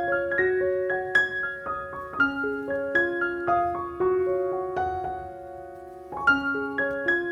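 Background piano music, a slow melody of single notes over broken chords. About four seconds in, a chord is held and fades, then the playing resumes.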